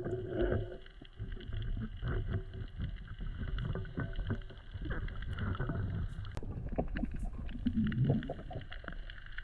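Muffled underwater sound while a propeller is worked onto a Yanmar SD60 saildrive shaft: a low rumble with many small clicks and knocks scattered throughout.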